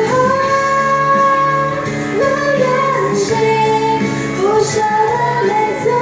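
A female voice singing a slow Mandarin pop ballad, holding long notes, over instrumental accompaniment with guitar.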